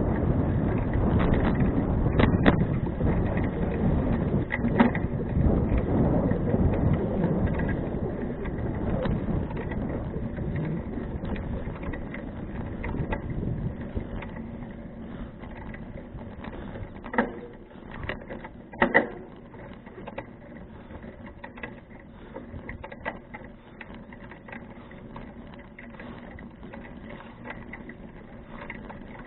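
Wind and tyre rumble from a moving bicycle, loud at first and easing off about halfway through. A few sharp knocks and rattles stand out, two of them close together near the two-thirds mark, over fine, rapid clicking.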